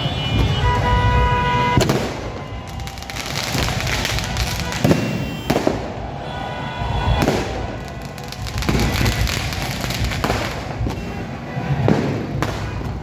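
Fireworks going off: about ten sharp bangs every second or so, with the hiss of ground spark fountains. Music with steady tones plays through the first two seconds.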